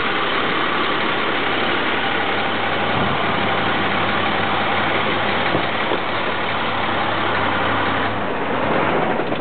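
2002 International 4300 truck's DT466E inline-six diesel engine idling steadily. Its low hum drops off about eight seconds in.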